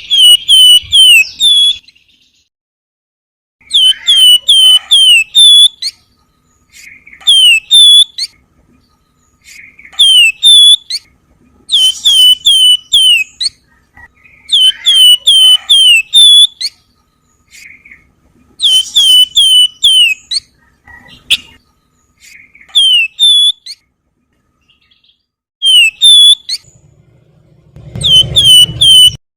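Javan fulvetta (wergan Jawa, known to keepers as flamboyan) singing in repeated bursts of quick, high, down-slurred whistled notes, several notes to a burst, with short pauses between bursts. A low rumble sits under the song near the end.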